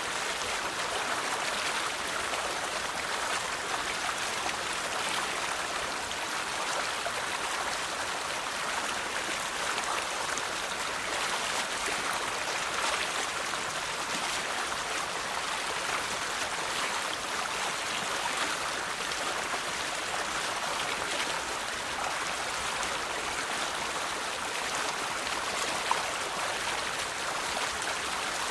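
River water flowing and babbling over stones, a steady rush with small splashes. There is one brief click or splash near the end.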